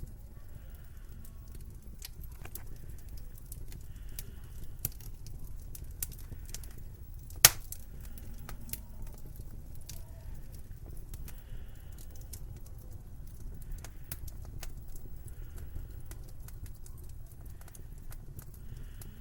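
Wood fire crackling in a fireplace: irregular small snaps and ticks over a steady low rumble, with one sharp loud pop about seven and a half seconds in.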